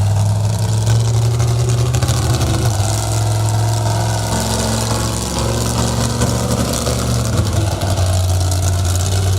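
Monster truck engine running at low revs with a deep, steady drone. Its pitch steps down and back up a couple of times as the throttle changes.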